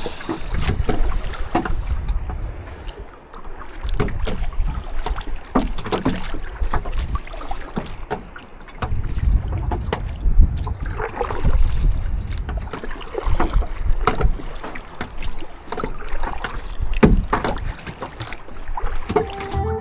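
Kayak paddling on choppy sea water: irregular splashes and slaps of the paddle and small waves. Wind rumbles on the action camera's microphone in gusts, strongest at the start and again about halfway through.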